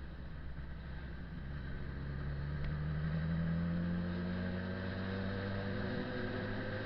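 Motorcycle engine running, its pitch rising slowly from about a second and a half in as it accelerates.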